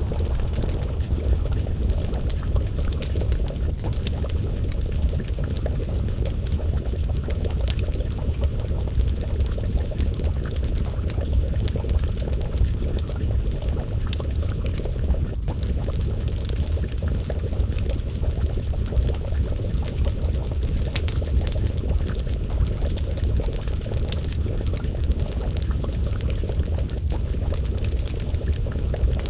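Wood fire crackling steadily with a pot of stew bubbling over it, over a constant low rumble.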